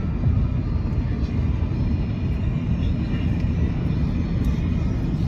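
Steady low road and wind noise from the electric Cybertruck cruising at highway speed, with no engine note.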